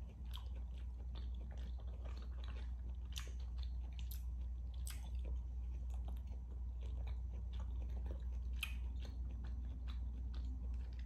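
Close-miked chewing of a mouthful of rare beef steak: wet mouth clicks and smacks, many small ones scattered irregularly, over a steady low hum.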